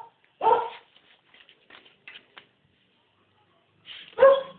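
Short vocal sounds from a man's voice muffled inside a motorcycle helmet, about half a second in and again near the end, with faint rustles and taps between them.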